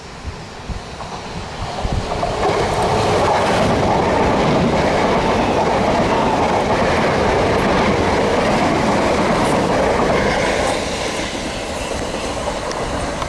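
Southern Class 377 Electrostar electric multiple unit passing close by: its running noise builds over about two seconds as it arrives, stays loud and steady while the carriages go past, and eases a little near the end.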